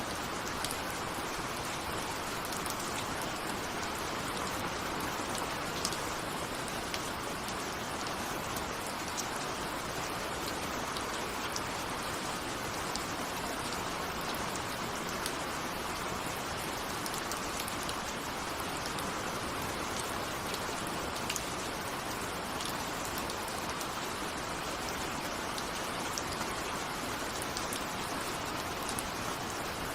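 Steady rain with individual drops pattering on a window.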